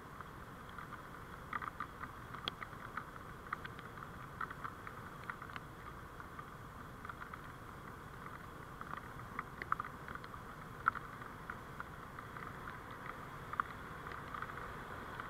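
Steady road and vehicle noise picked up by a dashcam while driving, with many small irregular ticks throughout.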